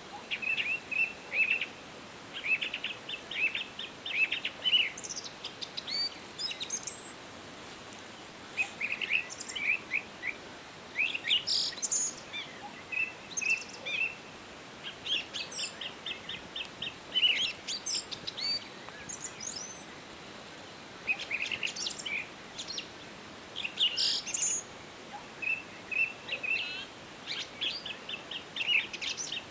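Songbirds singing: short, rapid trilled phrases of chirping notes, several overlapping voices, repeating every second or two over a faint steady hiss.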